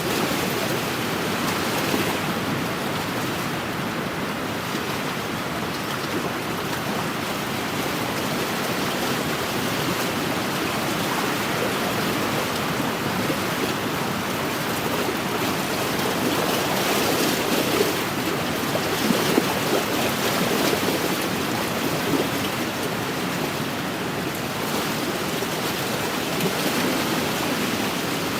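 Wind-driven waves lapping steadily against a lakeshore, with a few slightly louder splashes about two-thirds of the way through.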